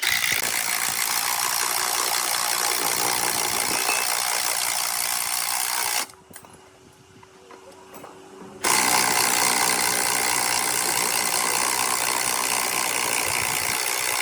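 A power tool running in two stretches: it cuts off about six seconds in and starts again about two and a half seconds later.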